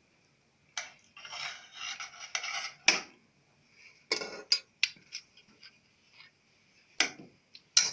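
A metal utensil scraping and clinking against a pan or baking tray: a rough scraping stretch about a second in, then a run of separate knocks and clinks.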